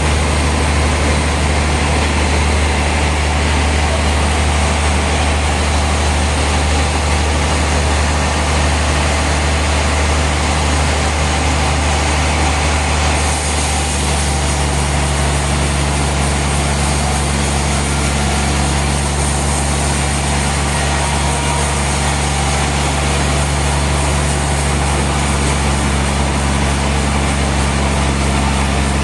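Heavy sawmill engine running steadily, its low note shifting slightly about halfway through.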